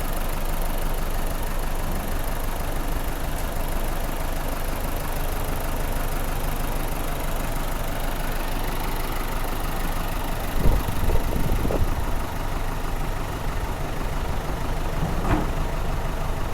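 A vehicle engine running steadily at idle, with a couple of short low thumps about two-thirds of the way through.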